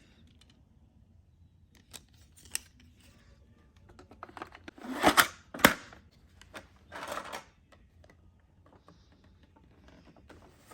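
Handling noise of the toy's plastic picture cards: a few light clicks, then three louder short scrapes and rustles in the middle, with quiet between.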